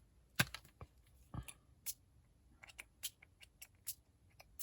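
Scattered light taps and clicks of craft work at a desk, with two louder knocks, about half a second and a second and a half in.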